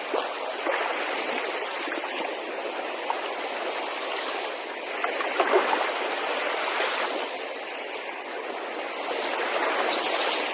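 Sea water washing and splashing in a steady rush, swelling louder for a moment about five seconds in.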